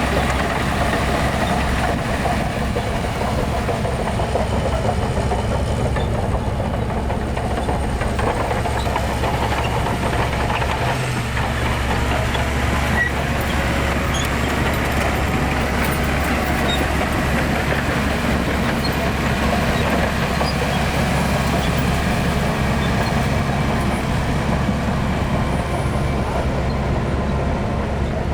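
Heavy diesel engine of earthmoving machinery running steadily with a deep, unbroken rumble, dipping briefly about a third of the way in.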